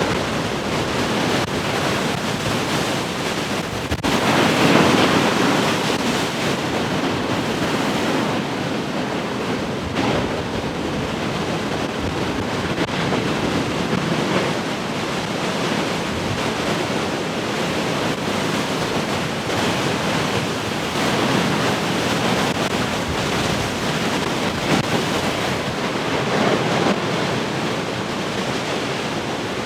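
Heavy ocean surf breaking in a continuous wash, with a big wave crashing about four seconds in and smaller surges swelling and fading after it.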